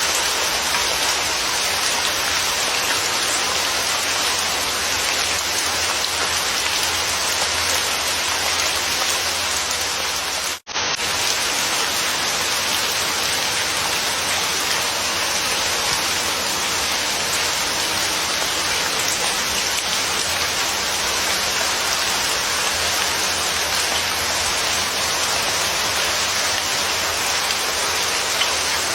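Steady, even rain falling, a dense hiss with a low steady rumble beneath. The sound drops out completely for an instant about ten and a half seconds in, then resumes unchanged.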